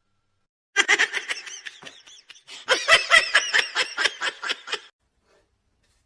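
A person laughing in quick, repeated bursts, in two bouts with a short break between them, stopping about a second before the end.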